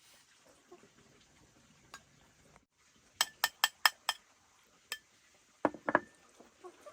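A utensil knocking against a metal cooking pot. Five quick ringing taps come about three seconds in, then a few more clanks near the end.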